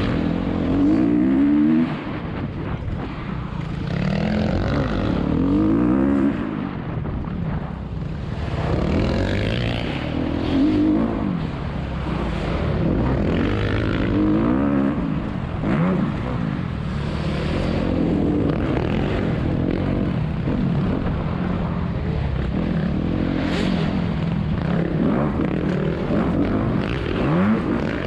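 Four-stroke motocross bike engine revving hard and backing off over and over, rising and falling in pitch every two seconds or so, heard from the rider's helmet.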